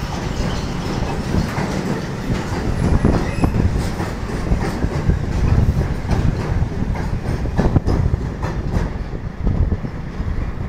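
Passenger train running past close by, with a steady rumble of wheels on the rails and repeated clicks as the wheels cross the rail joints.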